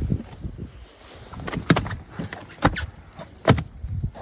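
Several sharp knocks and bumps on a fishing boat, about four in a couple of seconds, over a low rumble.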